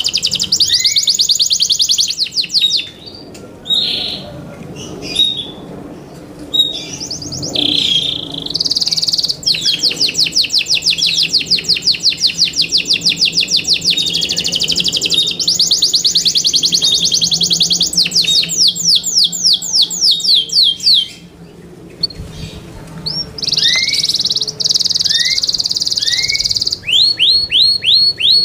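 Yorkshire canary singing long, rapid high-pitched trills and rolls, broken by short pauses about three seconds in and again near twenty-one seconds in.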